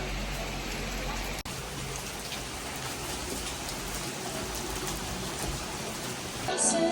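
Steady rain falling, an even hiss with a brief dropout about a second and a half in.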